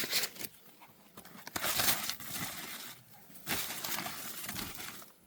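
Dry corn leaves and husks rustling and crackling in a few bursts as they are handled and brushed against.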